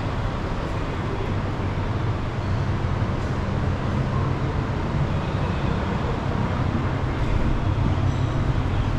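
Steady low rumbling background noise with a constant low hum, unchanging throughout.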